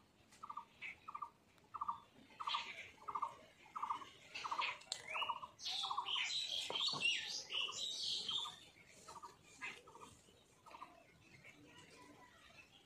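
Birds calling: one repeats a short, buzzy mid-pitched note about twice a second, fading near the end, while others give higher, busier chirps in the middle.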